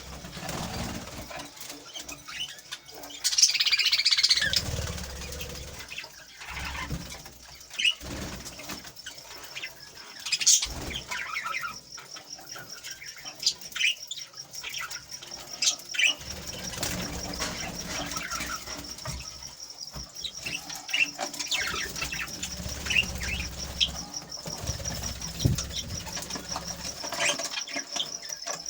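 Small aviary birds chirping and flapping their wings, with a louder flurry about four seconds in. From about a third of the way through, a steady, rapidly pulsing high-pitched trill runs underneath the chirps.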